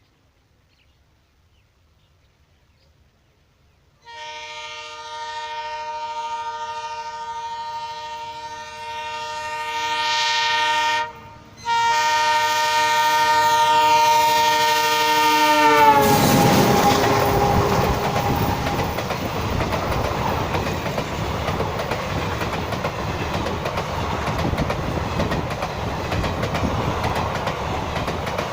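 WDM3A diesel locomotive's multi-tone horn sounding a long chord, starting about four seconds in and broken briefly near the middle, then dropping in pitch as the locomotive passes. The train then runs by with a steady clickety-clack of wheels on the rail joints.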